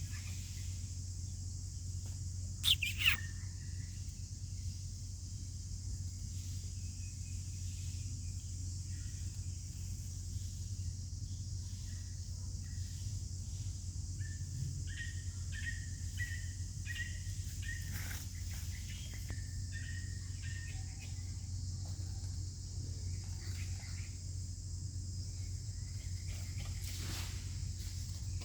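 Steady high-pitched insect drone, typical of crickets or cicadas, over a low steady hum. A short, loud, high call falls in pitch about three seconds in, and a run of soft chirps comes in the middle.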